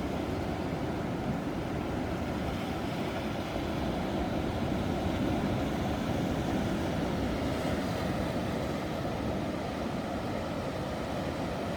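Ocean waves breaking in a steady, deep rush of surf, swelling a little in the middle.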